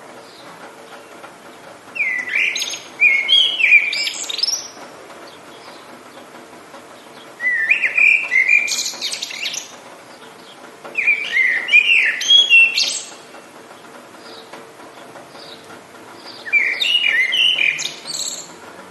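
A songbird singing four warbling phrases of about two seconds each, with pauses between, over a steady faint hiss of rain.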